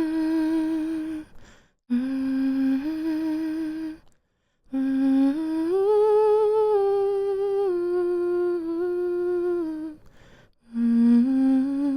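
A woman humming a slow lullaby in long, held notes, in phrases broken by short pauses. The longest phrase, in the middle, rises and then steps back down, and a new phrase begins near the end.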